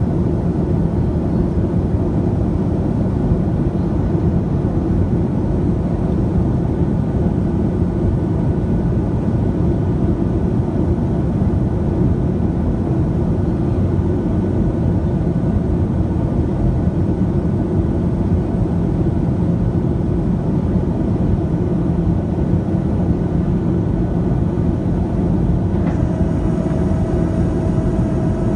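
Cabin noise of a Boeing 737-700 in flight: a steady rumble of its CFM56 jet engines and the airflow past the fuselage. A thin steady whine comes in near the end.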